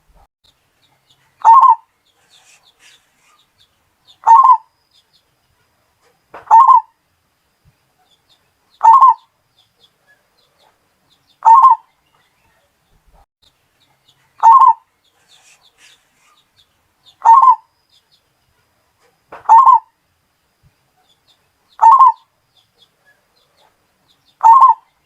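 Bali perkutut (zebra dove) cooing: a short coo phrase repeated ten times, about every two and a half seconds, with silence between.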